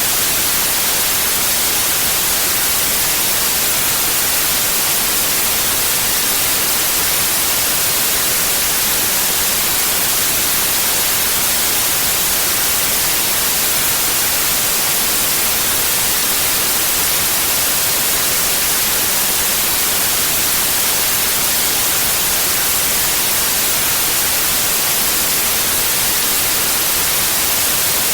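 Synthetic white noise: a steady, even hiss that never changes, strongest in the high frequencies.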